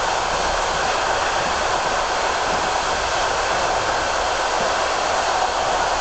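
Steady rushing noise of a passenger train running at speed, heard from inside the carriage.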